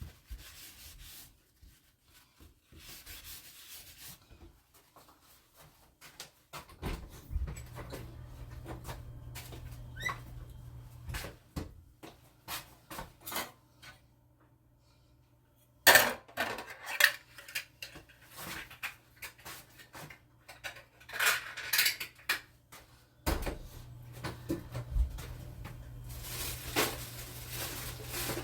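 Kitchen handling sounds: dishes, pots and utensils being moved, rubbed and clattered, with scattered clicks and scrapes. A steady low hum comes in about seven seconds in, stops for several seconds, and comes back near the end.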